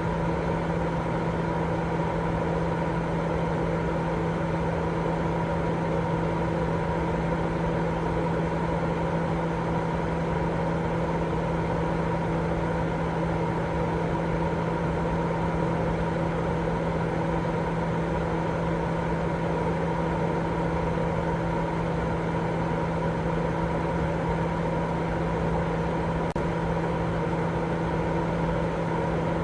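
Continuous baby-sleep white noise: a steady, unchanging rushing noise with a low hum running through it.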